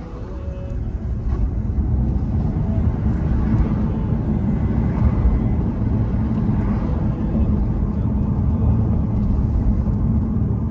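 Motor vehicle road noise: a steady low rumble that builds over the first couple of seconds, then holds.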